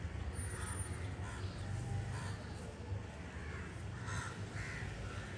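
Several short bird calls, a few at a time, over a steady low background rumble.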